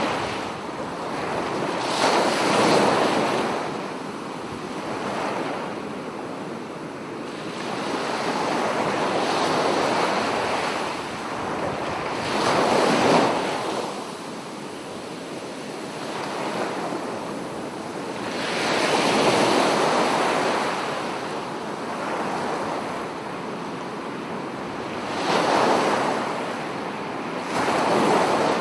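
Ocean waves breaking on a shore, with a steady rush of surf that swells into a louder wash every few seconds, about six times.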